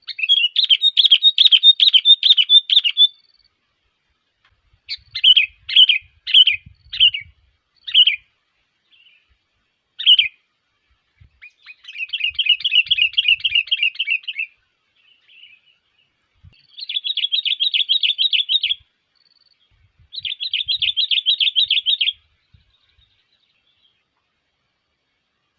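Sooty-headed bulbul calling: loud runs of rapid, chattering chirps, each lasting a few seconds, separated by short pauses and a string of separate sharp notes.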